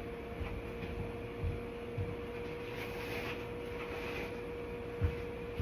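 A steady hum at one pitch, with a few soft low thumps about a second and a half, two seconds and five seconds in.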